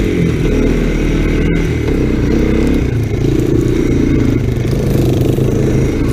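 Honda ATC 250SX three-wheeler's engine running as it is ridden through snow, its pitch shifting with the throttle.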